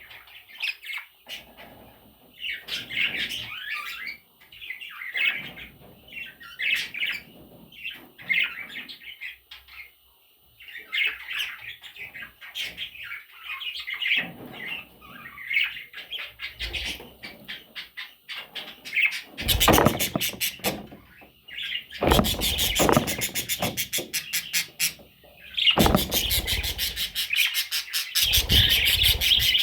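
Baby parrot chicks chirping in short bursts. In the last third they break into much louder, harsher, rapidly pulsing calls.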